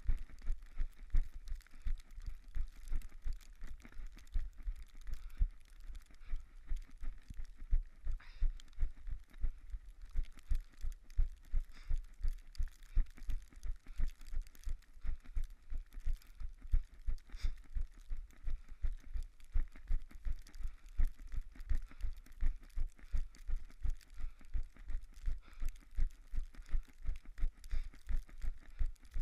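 Running footsteps in snow, about three strides a second, each a dull thud with a crunch of snow over a steady hiss.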